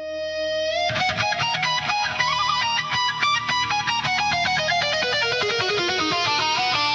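Instrumental music intro: a held tone swells in, then about a second in fast plucked electric guitar notes enter, with a run of notes stepping downward near the end.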